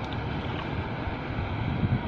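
Steady rushing wind noise buffeting the microphone outdoors.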